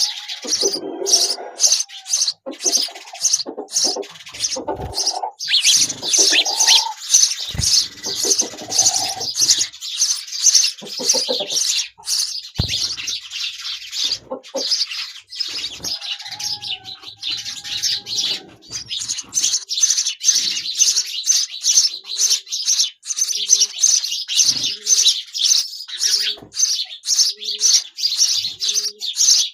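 Sparrow nestlings chirping rapidly and continuously in high-pitched begging calls while being fed. In the second half, a lower, short call repeats about once a second.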